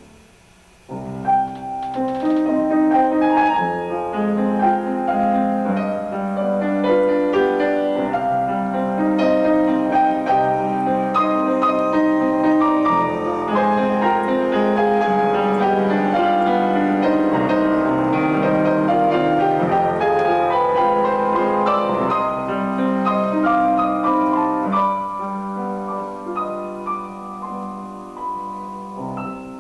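Piano music, a flowing run of many held notes. It starts about a second in after a brief pause.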